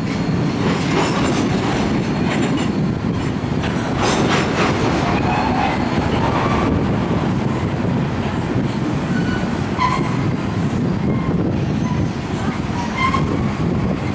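Coal hopper cars rolling past: a steady low rumble of steel wheels on rail, with a few sharp clicks in the first few seconds and short, high wheel squeals now and then in the second half.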